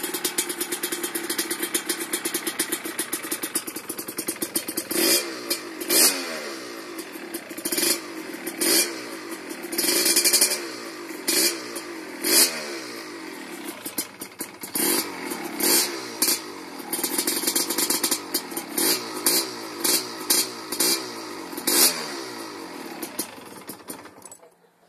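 Small two-stroke dirt-bike engine with a welded expansion-chamber exhaust, idling and then blipped in quick revs about once a second, each rising and falling in pitch. The engine shuts off near the end.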